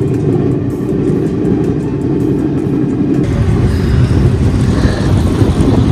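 Passenger train running, heard from its open doorway: a steady low rumble mixed with rushing air, growing heavier about three seconds in.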